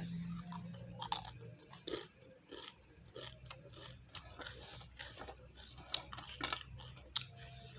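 Close-up chewing of raw mustard greens: irregular crisp crunches and wet mouth clicks as the leaves are bitten and chewed.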